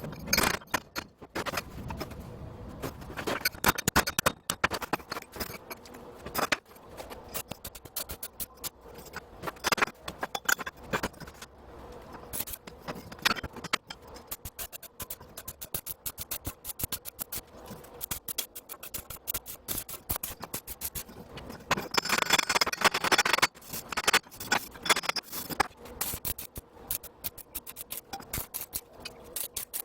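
Firewood being worked with an axe: irregular wooden knocks and clatter with scraping, and a longer rasping patch about two thirds of the way through.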